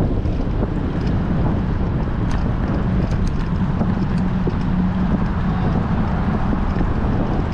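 Strong wind rushing over a GoPro's microphone on a moving bicycle: a steady low rumble, with a few faint clicks.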